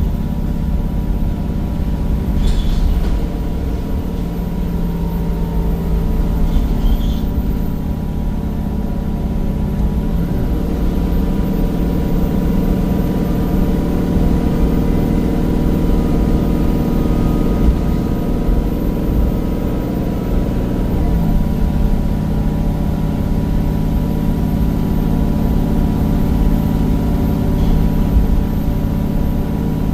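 Cummins diesel engine of a Temsa Avenue bus running under way with a ZF automatic gearbox, its note stepping up about 3 seconds in, dropping about 10 seconds in and rising again about 21 seconds in. A thin steady whine sits above the engine note.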